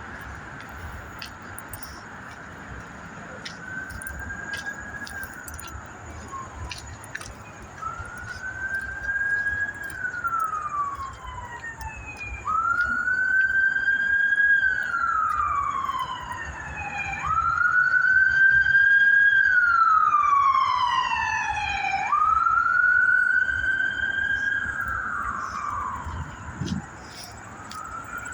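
Emergency vehicle siren wailing: each cycle rises quickly, holds, then slides down, repeating about every four to five seconds. It grows louder toward the middle and fades near the end as the vehicle passes.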